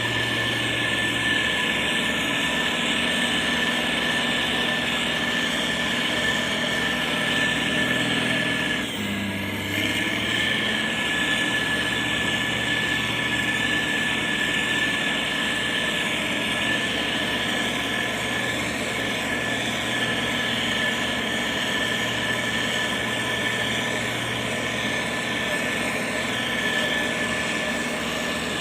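Motor grader's diesel engine running steadily under load, with a constant high-pitched whine over the engine note. About nine seconds in the engine note dips briefly and shifts pitch, then settles again.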